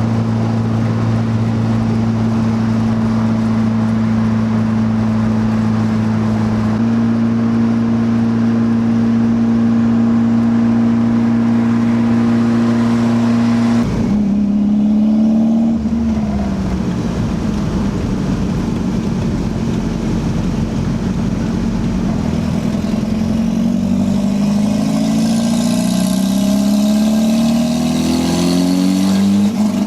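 Toyota 3S-GTE turbo four-cylinder with an open downpipe, very loud, holding steady revs at highway cruise. About halfway through the revs drop suddenly and fall away, then climb again in rising sweeps near the end.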